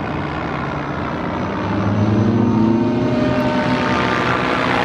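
Radio-controlled model aircraft's motor and propeller buzzing overhead, growing louder about two seconds in, its pitch shifting as it manoeuvres.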